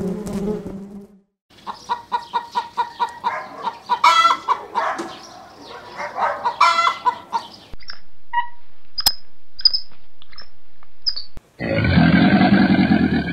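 Chickens clucking in quick repeated series, then a few short high peeps, and a longer, lower call near the end.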